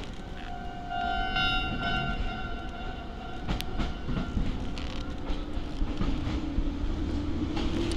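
Ohmi Railway 900-series electric train running, heard from the driver's cab: a steady rumble of wheels on rail, a sharp rail-joint click, and a whine from the traction motors that rises slowly in the second half. From about half a second in, a high warning tone of several pitches sounds for some four seconds.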